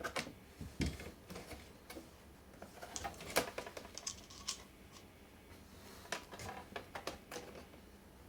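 Irregular light clicks and taps of hand work on a laptop's screen assembly: a small screwdriver working out a screw and plastic and metal parts being handled.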